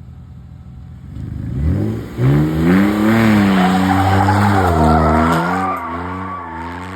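BMW engine revving up from idle and held bouncing against the rev limiter in a brake-stand burnout, with the spinning rear tyres squealing. A little over five seconds in, the revs drop back to a lower steady speed.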